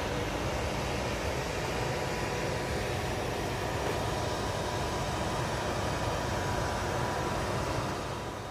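Electric passenger train running through a station: a steady rumble of wheels on the rails with a faint steady whine, fading out near the end.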